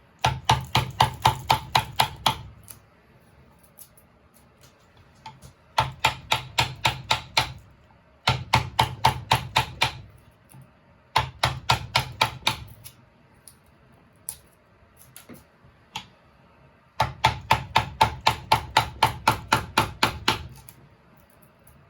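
Rapid taps of a carving tool striking wood, about five a second, in bursts of one to three seconds with short pauses between.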